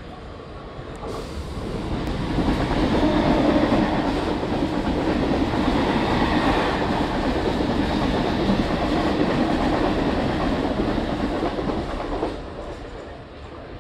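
A loud train running past on the rails. Its noise builds over the first two seconds or so, holds steady, and falls away sharply about twelve seconds in.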